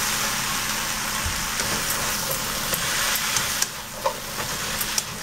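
Cut okra and tomatoes sizzling in hot oil in a nonstick frying pan while being stirred with a spatula: a steady sizzle with light scrapes and clicks of the spatula against the pan.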